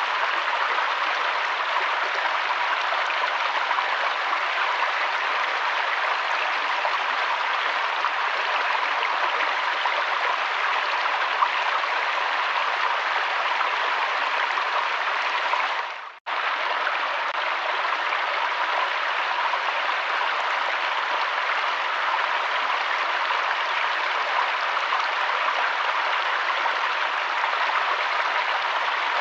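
Flowing river water, a steady, even rushing. Just past halfway it cuts out abruptly for a moment, then resumes at the same level.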